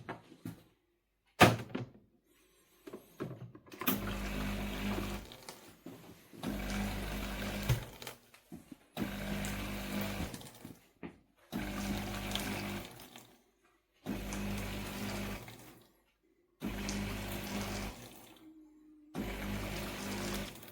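The De'Longhi Dinamica Plus bean-to-cup coffee machine's pump buzzing in repeated bursts of about two seconds, with water rushing through. There are about seven bursts with short pauses between them, after a click a second or so in.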